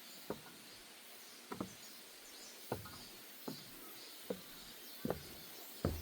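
Footsteps on a wooden deck path at a steady walking pace, about one dull knock every 0.8 seconds, with faint high chirping in the background.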